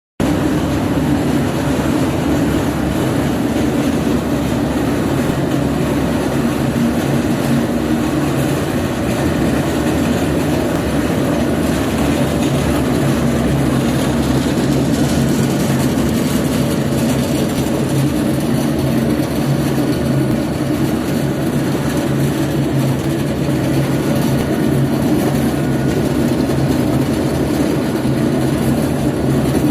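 Charcoal grinder running steadily: a loud, even mechanical din over a low, constant motor hum, cutting in abruptly at the start.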